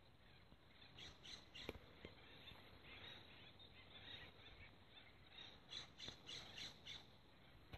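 Near silence with faint bird chirps, a quick series of them near the end, and a single click about two seconds in.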